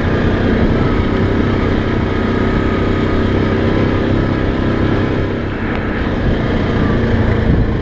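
Off-road vehicle's engine running steadily under way on a trail, easing slightly about five and a half seconds in.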